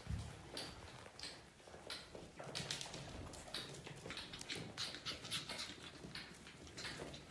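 Biewer terrier puppies moving about and playing: irregular small scratches, clicks and patters, a few each second.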